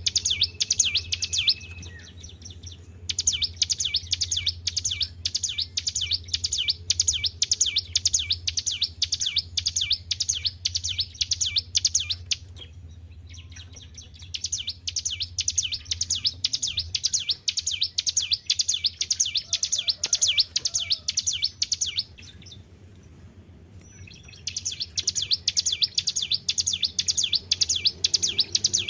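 Ciblek gunung (hill prinia) singing in long, rapid strings of high repeated notes, broken by a few short pauses, over a steady low hum.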